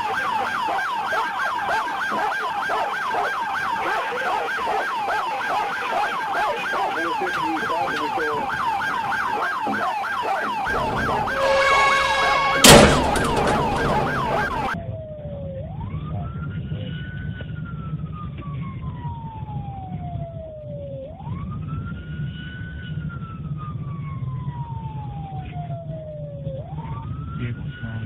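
Police siren in a rapid yelp. About halfway through comes a short steady horn-like tone and a sharp crack, the loudest moment. After an abrupt cut, a police siren wails slowly, each cycle rising quickly and falling over several seconds, over a low vehicle engine rumble.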